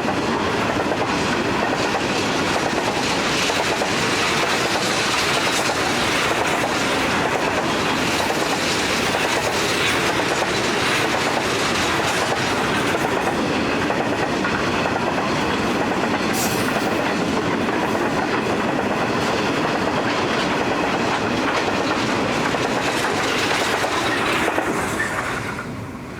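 A long string of grain hopper wagons rolling past, their wheels clicking steadily over the rail joints. The sound drops away about a second before the end as the last wagon goes by.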